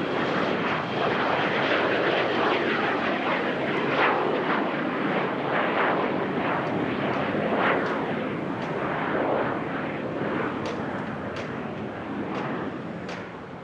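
A fixed-wing aircraft's engines passing close by as a loud, steady rushing noise that fades toward the end.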